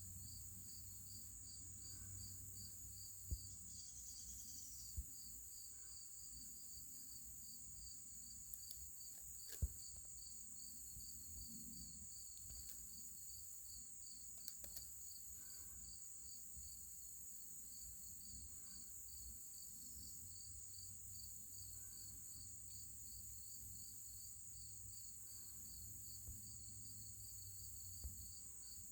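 Faint insect chorus: a high chirp pulsing about four times a second over a continuous high trill, with a few soft clicks scattered through.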